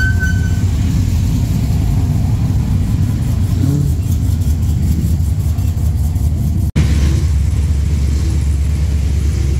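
Modified cars' engines rumbling loudly as they cruise slowly past, one of them supercharged. The sound cuts out for an instant about two-thirds of the way through, then a steady low engine rumble carries on.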